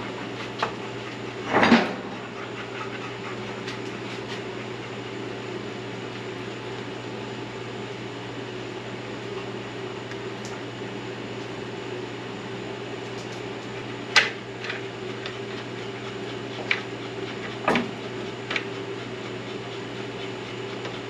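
A steady low mechanical hum, like a fan or other running machinery. Over it come a few separate sharp metallic knocks and clinks of tools or parts being handled: one just under 2 s in, the loudest about 14 s in, and a few more around 17 to 18 s.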